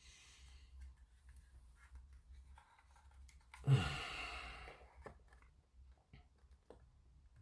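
A person sighs once about halfway through: a falling voiced onset trailing into a breathy exhale that fades over about a second. Faint small clicks are scattered around it.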